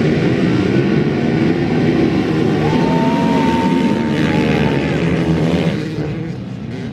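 Dirt bike engines running, with a steady high engine note held for about two seconds in the middle, fading out near the end.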